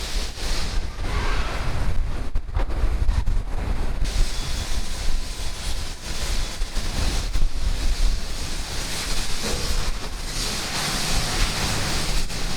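Wind buffeting the camera microphone: a gusty low rumble over a steady rush of wind and sea.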